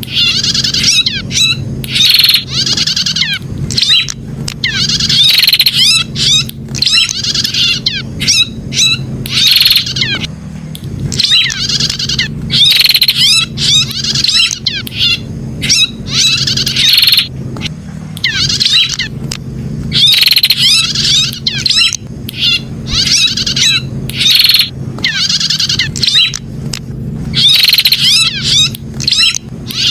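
Prenjak (a prinia) calling over and over in loud, fast chirping phrases, each a second or two long with short breaks between. A steady low hum runs underneath.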